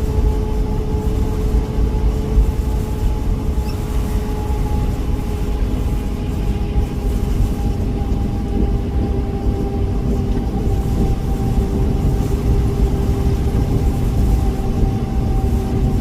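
Moving vehicle: a steady low rumble of engine and road noise, with a steady hum that drifts slowly down in pitch.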